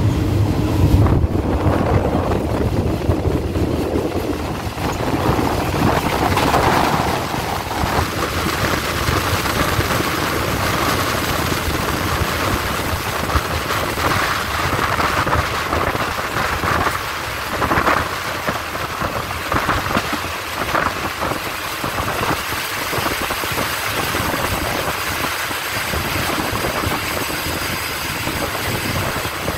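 A passenger train running along the track, heard from an open coach window: steady rushing wind buffets the microphone over the train's running noise.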